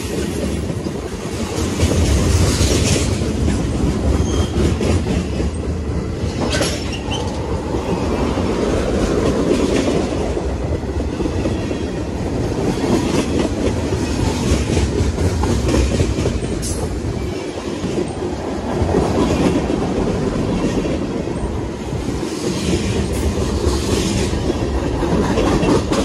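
A mixed freight train of coil cars, tank cars and boxcars rolling past close by: a steady, loud noise of steel wheels on the rails with clickety-clack over the rail joints.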